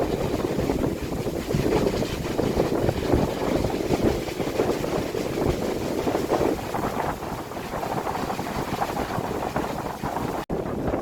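Strong wind blowing in uneven gusts, with low rumbling wind noise buffeting the phone's microphone. The sound drops out for an instant near the end.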